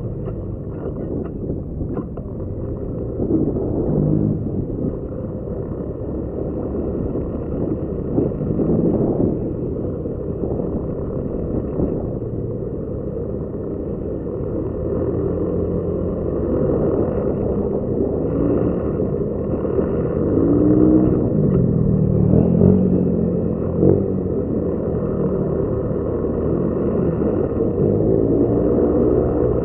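Motorcycle engine running on the move, its pitch rising and falling several times with the throttle, over a steady low rumble.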